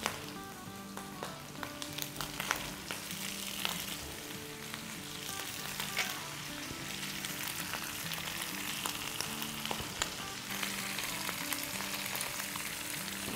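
Spice-rubbed eggplant slices sizzling in hot oil in a pan, with scattered crackles and clicks as the pieces are laid in. Soft background music plays underneath.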